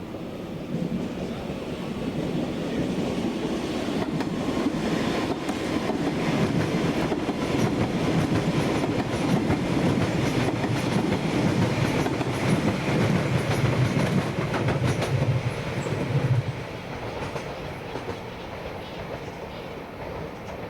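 A train running through the station, its wheels clicking over the rail joints; the sound builds over the first few seconds, stays loud for about ten seconds, then drops off sharply about three-quarters of the way in.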